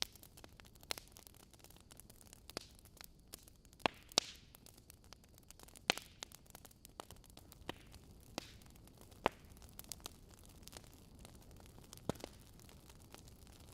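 Log fire in a fireplace crackling: irregular sharp pops and snaps, about a dozen of them, some louder than others, over a faint steady hiss.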